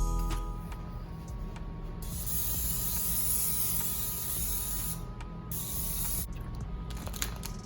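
A spray hissing steadily for about three seconds, cutting off sharply, then a second, shorter spray, over soft background music.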